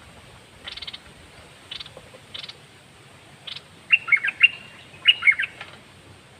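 Caged songbird calling. First come four short scratchy chirps, then two quick bursts of clear whistled notes, about four and five seconds in, which are the loudest part.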